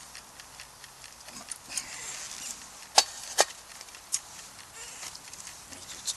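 Wood campfire crackling, with small pops throughout and two sharp snaps about three seconds in, then a third a moment later.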